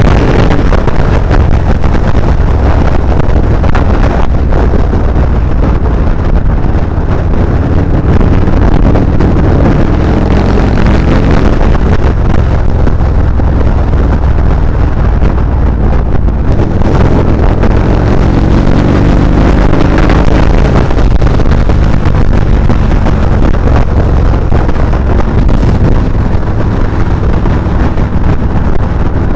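Motorcycle engine running on the move, under heavy wind rush on the microphone; the engine note rises and falls with the throttle, most clearly about two-thirds of the way through.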